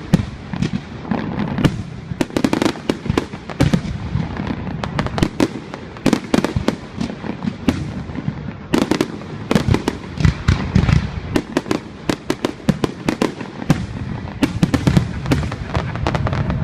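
Fireworks display: a dense run of sharp crackling reports and bangs over low rumbling booms, coming in thick clusters with brief lulls.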